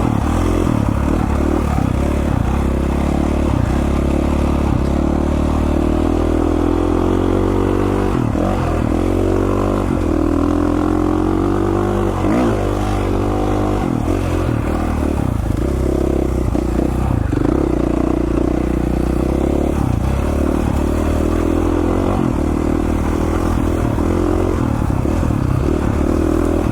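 2017 KTM 450 XC-F dirt bike's single-cylinder four-stroke engine running under throttle on rough trail, revs rising and falling several times, with some clatter from the bike over the rough ground.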